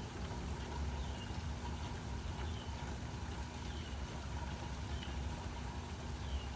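Steady rain falling, an even hiss over a constant deep low rumble. A short faint high chirp repeats about every second and a quarter.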